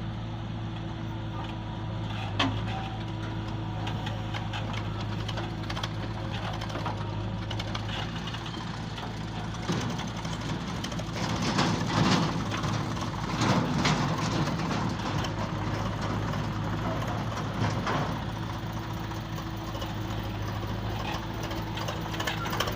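Heavy diesel engine running steadily, with a louder, rougher stretch about halfway through.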